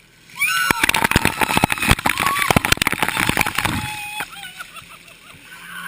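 A load of ice water dumped from a tractor's front-loader bucket comes down in a sudden splash with rattling ice, and people shriek through it. The splashing eases off over the last two seconds.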